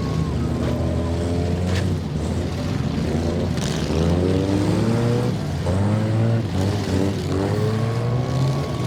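Demolition derby cars' engines revving up and down, several at once, with a couple of sharp bangs about two and three and a half seconds in.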